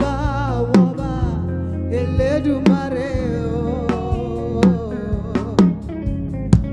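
Live gospel praise music: a singing voice holds long wavering notes over a steady bass, with sharp drum hits about once a second.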